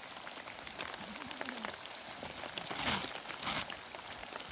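Rain falling steadily, with many separate drops striking close by; it grows a little louder about three seconds in.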